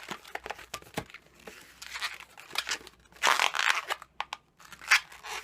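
Latex twisting balloons being handled and twisted by hand: quick rubbing and crinkling strokes of rubber against rubber and fingers, with a longer rub a little past the middle and one sharp louder click near the end.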